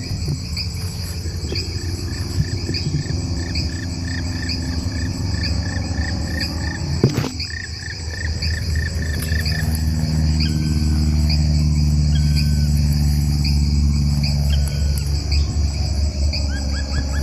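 Insects, likely crickets, chirping in a steady, regularly repeating pattern, over a low steady hum that grows louder about nine seconds in; a single sharp click about seven seconds in.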